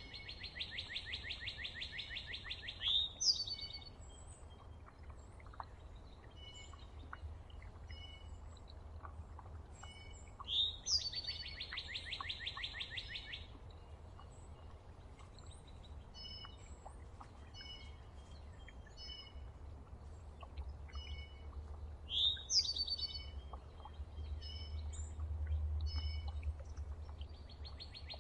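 A songbird singing a rapid, even trill of about three seconds, repeated about ten seconds later, with short rising notes and scattered chip notes from other birds around the feeder. A low steady rumble runs underneath, swelling near the end.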